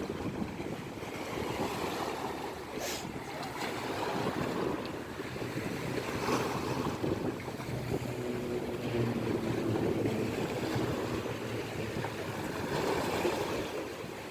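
Ocean waves breaking and washing up the shore, the surf swelling and easing every few seconds.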